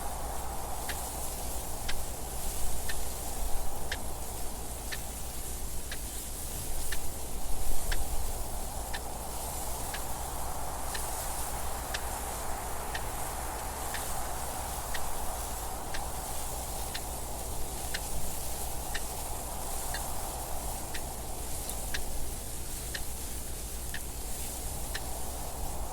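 A clock ticking steadily at about two ticks a second over a continuous rushing wind that swells and eases, with louder gusts a few seconds in.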